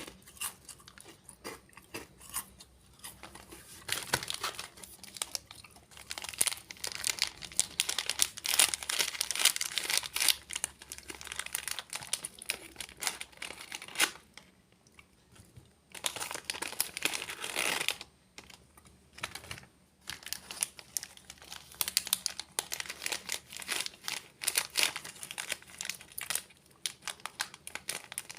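Plastic snack packets crinkling and tearing, mixed with crunching of crisp snacks. It comes in irregular spells with short pauses, and there is a dense stretch of crackling about two-thirds of the way through.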